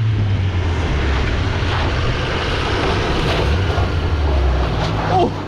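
A car engine running hard close by, its pitch stepping up and down as the car slides through snow, over wind and tyre noise. A short shout near the end.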